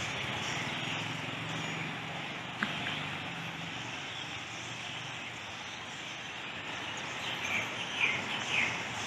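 Steady hum of city traffic noise, with a single sharp click about two and a half seconds in and a few short bird chirps near the end.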